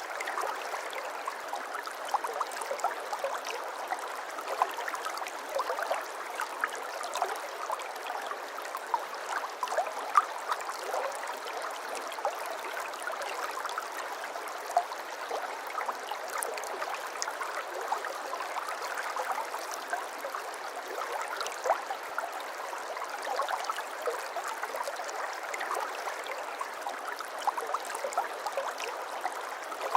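Water of a stream flowing and babbling steadily, with a constant sprinkle of small splashes and trickles.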